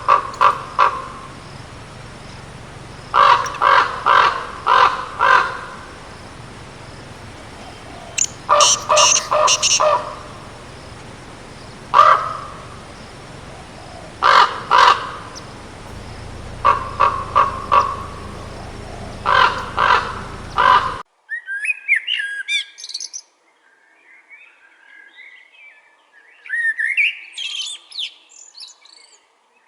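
A bird's harsh cawing calls, given in short series of several notes. About two-thirds of the way through, a different recording takes over: a small bird's high, whistled chirps and trills.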